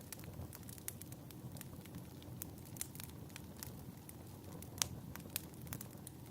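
Wood fire crackling: irregular sharp pops and snaps over a low rumble, the loudest pop a little under five seconds in.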